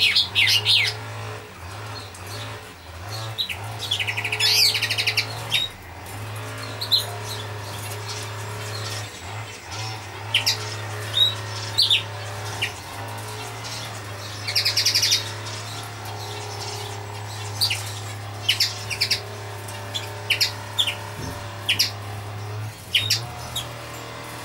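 Small birds chirping: many short high chirps, with a buzzy trill about four seconds in and another about fifteen seconds in, over a steady low hum.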